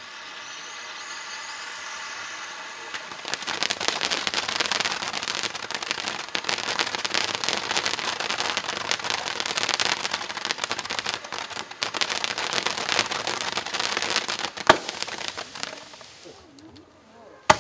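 Firework fountain hissing steadily, then from about three seconds in a dense, continuous crackling as the combined fountain and six-shot 1-inch aerial cake fire crackling stars. It dies away near the end, with one loud sharp crack shortly before it fades and another at the very end.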